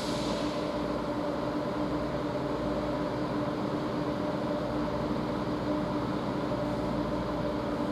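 Class 220 Voyager diesel-electric unit standing with its engines idling: a steady hum with a constant drone tone and no change throughout.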